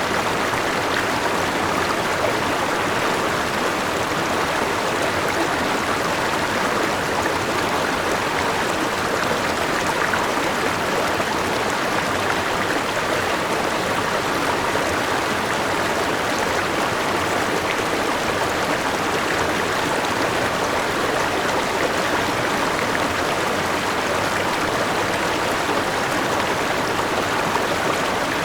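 Steady rush of river water flowing over rocks, with a small waterfall.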